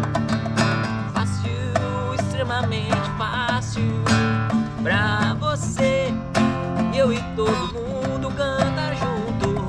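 Acoustic guitar strummed in a steady rhythm, with a wavering, voice-like melody line over it.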